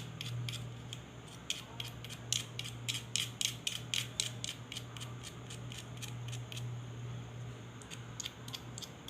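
Quick irregular scraping clicks of a small metal tool working on a resistor's wire leads, cleaning carbon deposits off them before the resistor is fitted. The clicks thin out past the middle, over a steady low hum.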